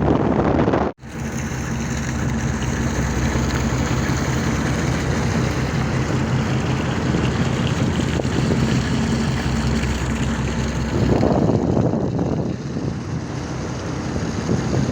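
A boat's engine running steadily with a low drone, under wind and water noise. The sound cuts out briefly about a second in, and louder gusts of rushing noise come in near the end.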